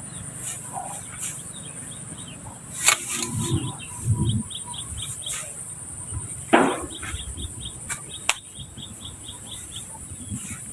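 Outdoor insect drone, steady and high, with runs of quick repeated bird chirps. A few sharp knocks and low thumps come through, the loudest a little over halfway.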